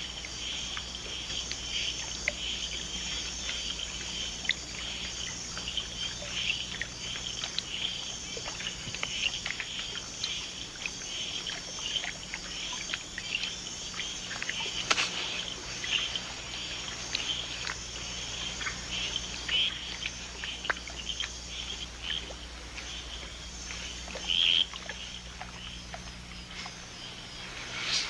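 Night rainforest chorus of insects and frogs: a steady high trilling under many short chirps and clicks, with one sharp click about halfway through and a louder short call near the end.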